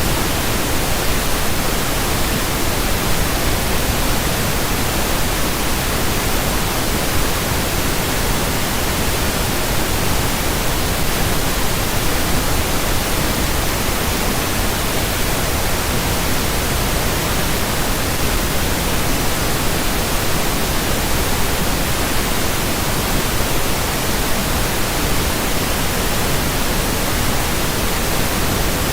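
Steady pink noise: an even, unchanging hiss across all pitches, with no breaks or changes.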